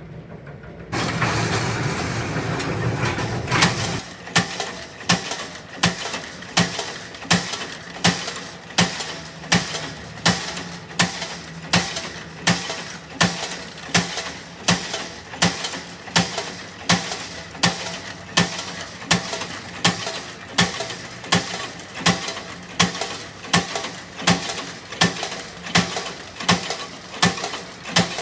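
A few seconds of loud, steady machine noise that stops about four seconds in, followed by a steady rhythm of sharp metallic strikes, about four every three seconds, each ringing briefly.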